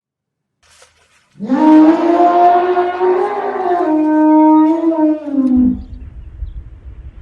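One long, loud animal call starting about a second and a half in, holding a fairly steady pitch for about four seconds and then sliding down and stopping, followed by a low rumble.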